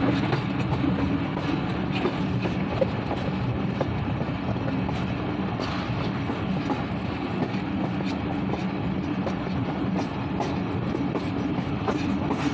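Passenger train running along the track, heard from an open coach window: a steady rumble with faint, irregular clicks from the wheels on the rails.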